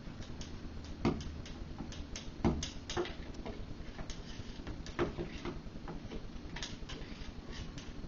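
Irregular light clicks and knocks, with a few louder thumps about one, two and a half and five seconds in.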